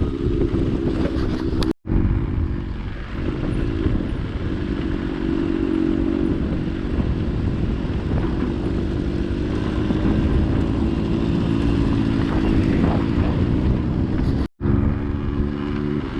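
Motorcycle engine running steadily under way, cut off abruptly for a moment twice, about two seconds in and near the end.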